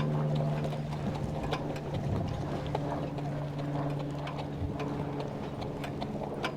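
A harness horse's hooves clip-clop unevenly over a steady low mechanical hum.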